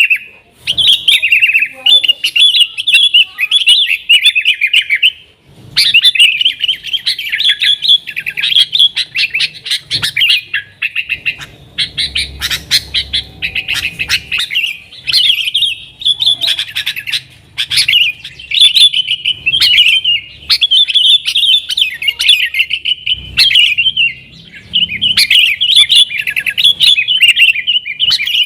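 Yellow-vented bulbul (trucukan) singing continuously in quick, high, chattering phrases, with only a few short gaps.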